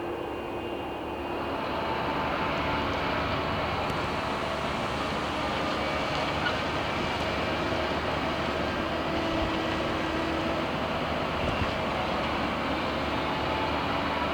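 Jet airliner engines running, a steady, rushing noise that swells over the first two seconds and then holds.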